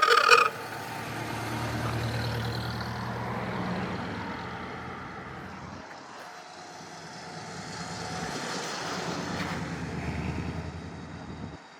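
Sports cars driving past one after another, each engine note swelling and fading as it goes by, with two passes about five seconds apart. A brief loud, high-pitched sound of about half a second comes right at the start.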